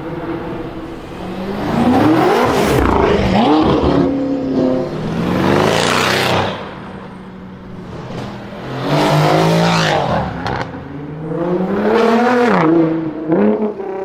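Loud car engine and exhaust surging four times, its pitch climbing and then falling away each time.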